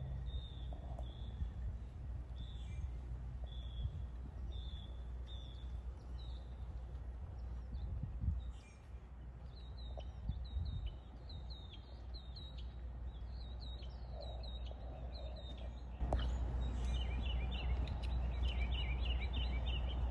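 Small birds chirping in short, repeated high notes, building to a quicker, denser chatter of chirps near the end. Under them runs a steady low background rumble that gets louder about sixteen seconds in.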